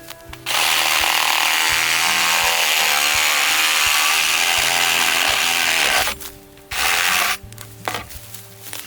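Electric chainsaw cutting through bamboo: one long cut of about five and a half seconds, then a short second burst about seven seconds in.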